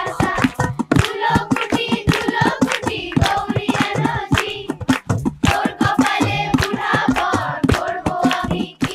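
A group of voices singing together, with rapid hand clapping keeping the beat.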